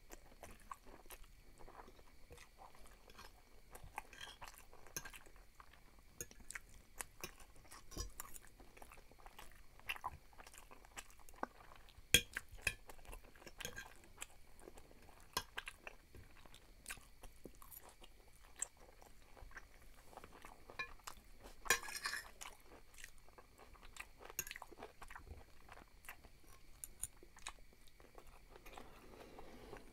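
Close-up chewing of thick fettuccine in tomato sauce: wet, smacking mouth sounds with frequent small clicks, and a metal fork clinking and scraping on a glass plate between bites. The sharpest click comes about twelve seconds in, and a denser run of sounds about twenty-two seconds in.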